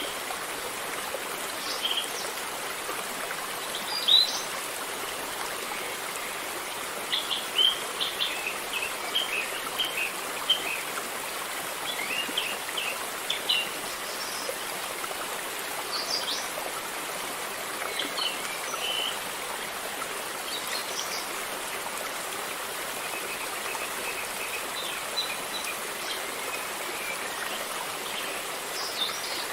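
River water flowing steadily, with small birds chirping now and then over it, including a run of quick chirps about a quarter of the way in.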